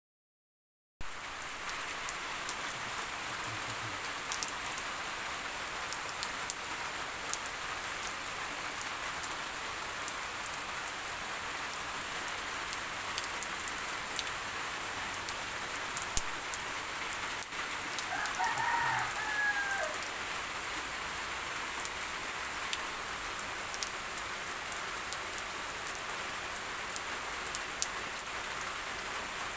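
Steady rain falling on surfaces, with individual drops ticking sharply throughout. About two-thirds of the way through, a bird gives one short call that falls in pitch at its end.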